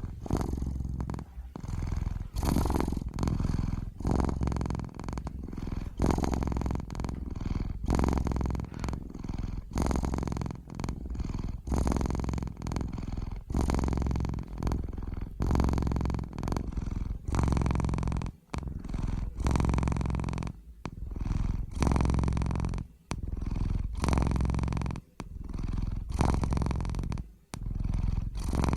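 Domestic cat purring close up, a steady low rumble that swells and eases with each breath, about once every two seconds.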